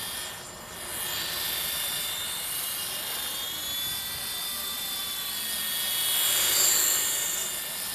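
Single-blade radio-control toy helicopter in flight: a steady high-pitched motor and rotor whine with several held tones. It swells louder about six seconds in, then eases off.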